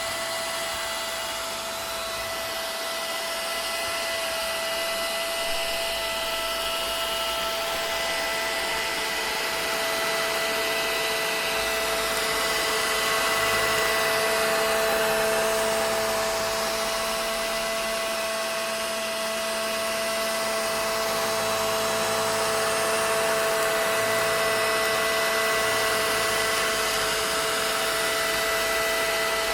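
Vacuum cleaner running steadily: a continuous rush of air with a constant whine, unbroken throughout.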